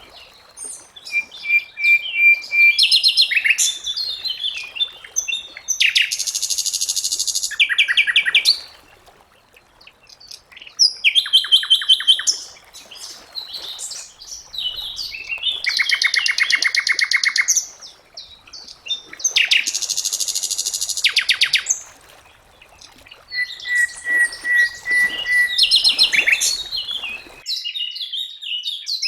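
Sikatan londo flycatcher singing in varied phrases: high whistled notes, rapid buzzy trills and a steady held whistle, with short pauses between phrases.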